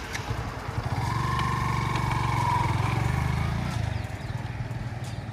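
Yamaha FZ V2's single-cylinder engine picking up about a second in, running steadily under throttle, then easing off to a quieter rumble near the end.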